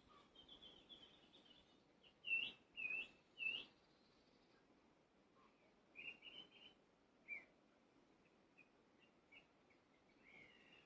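Small birds calling in woodland: three loud chirps in quick succession about two seconds in, then a few softer chirps, over a quiet background hush.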